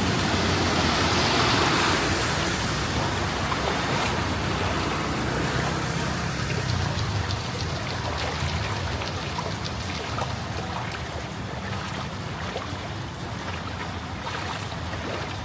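Floodwater sloshing and splashing on a flooded street as vehicles drive through it, over a low engine rumble. It is loudest in the first couple of seconds, then eases off.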